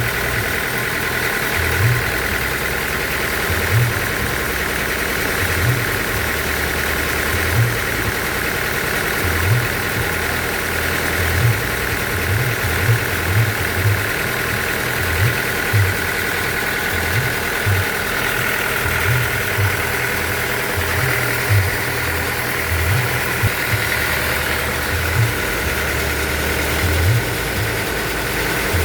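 Band sawmill running steadily, with a high steady whine and irregular low thumps every second or two.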